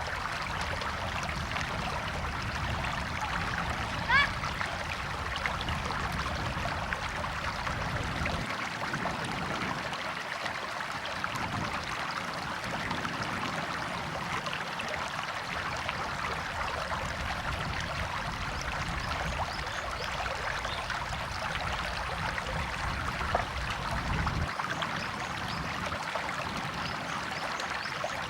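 A river or stream flowing, a steady rush of trickling water. About four seconds in there is one brief, sharp rising high sound.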